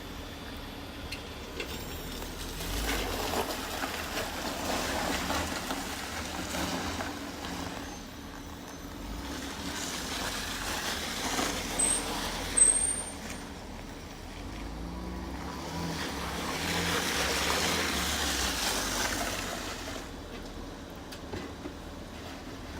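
A Jeep driving on snow and ice: its engine runs under a rush of tyre and road noise that swells and fades three times. A brief high squeak comes about halfway through.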